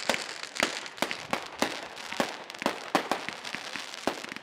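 Fireworks display: a rapid, irregular series of sharp bangs, two or three a second, over a steady background haze.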